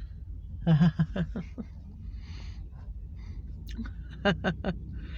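A few short, indistinct voice sounds, about a second in and again near four seconds in, over a steady low rumble.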